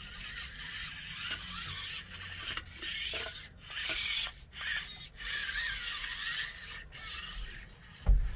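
Axial SCX24 mini crawler's small electric motor and gears whining in stop-start bursts, with the tyres and chassis rasping and scraping over the course. A thump near the end.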